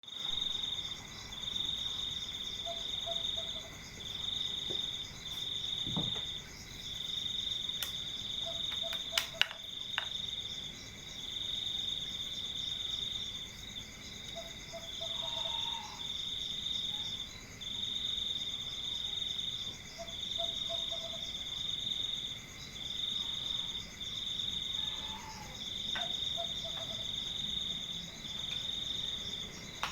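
Crickets trilling: a high, continuous-sounding trill broken into pulses of a second or two with short gaps. A short call of three or four lower notes repeats every five or six seconds, and a few sharp clicks come about nine seconds in.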